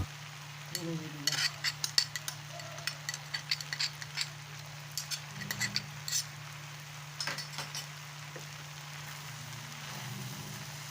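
Cooking utensil stirring in a pan: a string of light, irregular clinks and scrapes over a faint steady hum.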